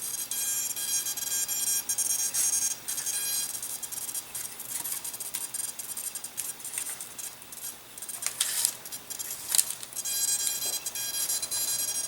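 Micro servos on a small RC plane buzzing with a high-pitched whine in short spells as they drive the control surfaces, with a couple of sharp clicks in between.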